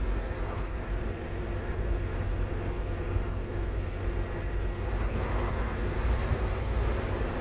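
Scania K230UB Omnilink single-decker bus under way, heard from on board: its five-cylinder diesel engine running with a steady low rumble over road noise, and a steady hum holding for a few seconds in the first half.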